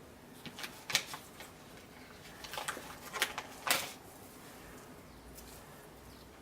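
A few short clicks and scrapes of kitchen utensils and containers being handled, in two clusters about half a second in and from about two and a half seconds in.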